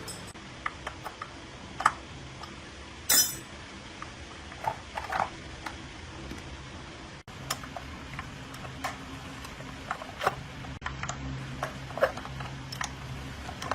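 Scattered metallic clinks and taps, with the loudest about two and three seconds in, as hand tools and loose metal parts are handled during a pump repair. A faint low hum runs underneath.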